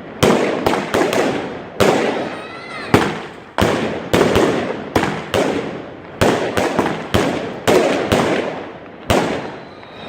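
Fireworks going off in a rapid, irregular series of sharp bangs, one or two a second, each fading out in a crackling rumble.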